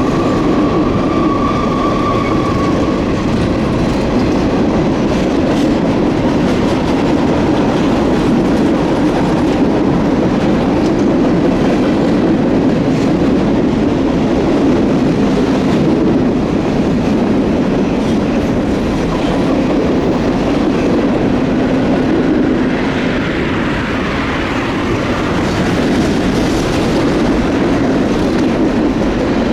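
Freight train cars rolling past at steady speed, the wheels clicking over rail joints over a continuous rumble. A thin steady tone sounds for the first few seconds.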